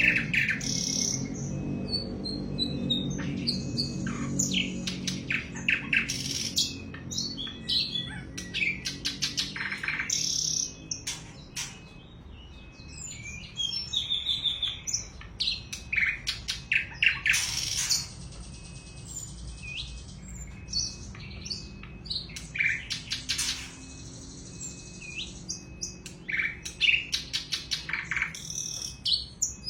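Sikatan londo flycatcher singing its sharp, high-pitched song in quick repeated phrases and runs of notes. A low hum sits underneath during the first third.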